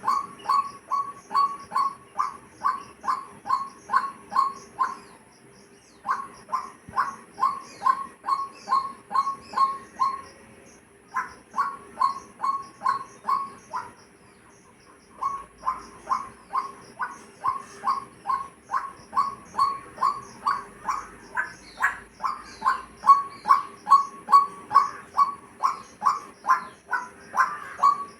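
A bird calling one short note over and over, about two to three a second, in long runs broken by brief pauses. Fainter high chirps of other birds sound behind it.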